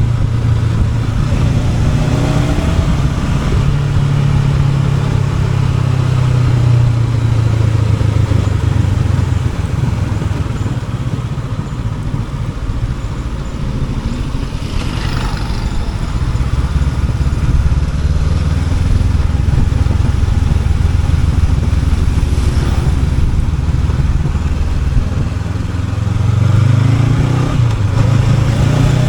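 Honda NX500's parallel-twin engine running under way, heard from on the bike with wind rush. The revs climb about two seconds in and again near the end, with the engine easing off for a few seconds in between.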